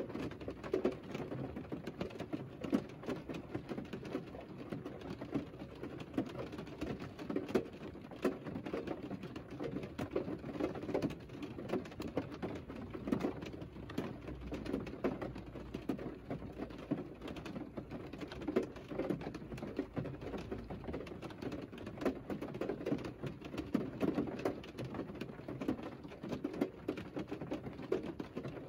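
Rain pattering on a Mercedes car's roof and windscreen, heard from inside the closed cabin: a steady, dense stream of soft, irregular drips and taps.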